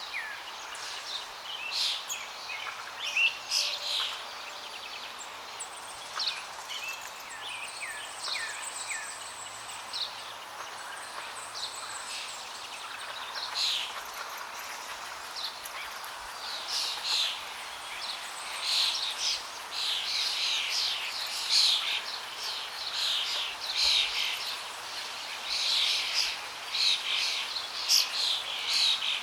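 Many birds chirping in quick short calls over a steady rush of flowing water; the calls grow busier and louder in the second half.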